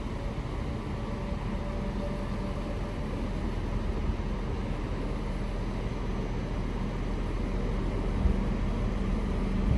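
A train in the station, giving a steady low rumble with a faint even hum, slightly louder near the end.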